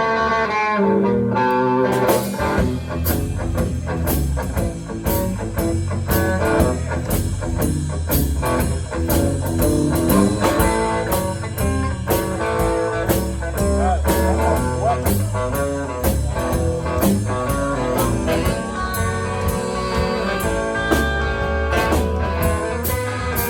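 Blues band playing an instrumental intro: guitar, bass and drum kit, with the drums kicking in with a steady shuffle beat about two seconds in.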